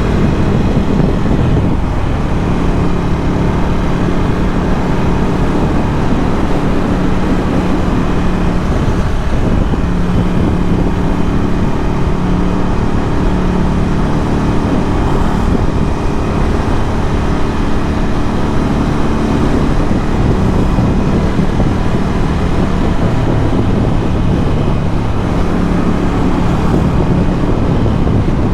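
Ducati Scrambler 1100's air-cooled L-twin engine through a Termignoni exhaust, running steadily while riding, its note shifting a few times with the throttle.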